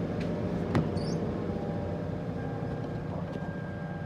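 Car engine being cranked by its starter just after a disconnected fuel line was refitted: a steady, rapidly pulsing mechanical churn with a sharp click about three-quarters of a second in.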